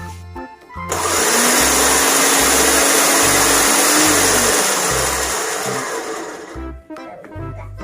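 Electric blender motor running and grinding dry oats smooth, starting about a second in and winding down near the end, its hum briefly rising in pitch before dropping. Background music with a steady beat plays underneath.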